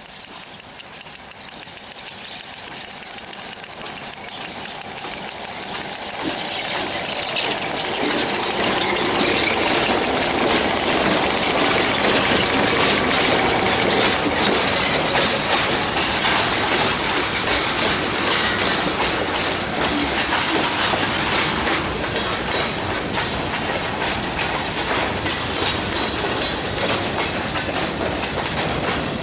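Ontario Southland Railway freight train rolling past close by, its wheels clicking over the rail joints. It grows louder over the first several seconds, then holds steady as the cars go by.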